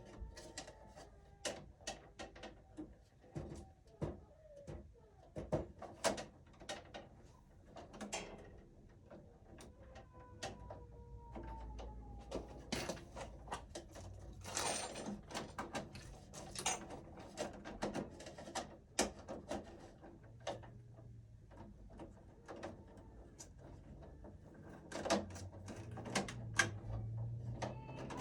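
Irregular clicks, taps and scrapes of stiff electrical wire being bent and handled inside a breaker panel, with a few faint creaks.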